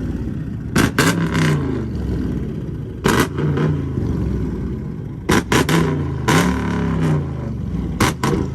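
Car engine revving in repeated short blips, the note sweeping up and falling back each time. Each blip comes with a cluster of sharp bangs, which are the loudest sounds here: exhaust pops.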